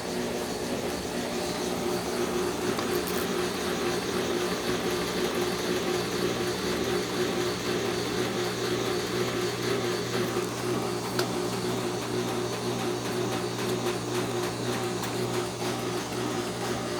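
Brastemp 9 kg washing machine running its spin cycle: a steady, even motor hum with a whirring drum and no breaks.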